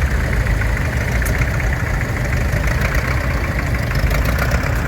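Classic tractor engine idling steadily close by.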